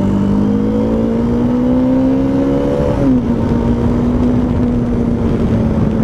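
Bajaj Dominar 400's single-cylinder engine pulling under acceleration on the road, its pitch rising steadily, then dropping sharply about three seconds in as it shifts up, and running steady after that.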